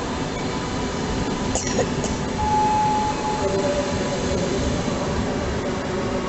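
PKP Intercity Pendolino (ED250) electric trainset rolling past at close range, its carriages giving a steady rumble on the rails. Two short clicks come about one and a half to two seconds in, and a brief high tone sounds shortly after.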